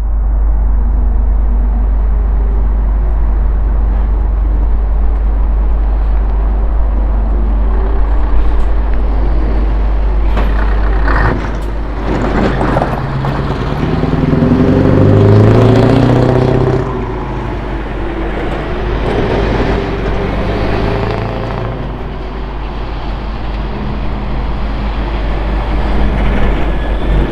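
Scania 164G 580's 16-litre V8 running through a straight exhaust pipe: a steady, deep idle, with a short hiss about eleven seconds in. Then the engine is revved, its pitch climbing to the loudest point around fifteen seconds before dropping back and rising again.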